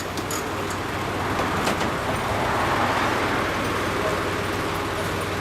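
Motor vehicle noise with a steady low engine hum, swelling to its loudest midway and easing off, as a vehicle passes.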